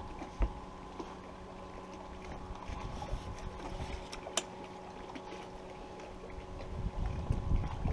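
Small boat motor running with a steady low hum that stops about seven seconds in, with a few sharp clicks along the way. Wind buffets the microphone near the end.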